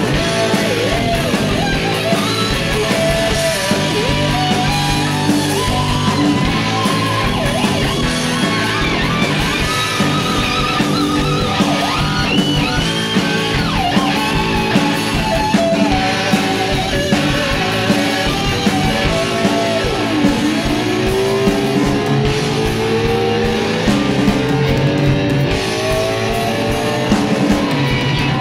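Live rock band playing an instrumental passage with electric guitar, bass and drums, its lead line full of sliding, bending notes.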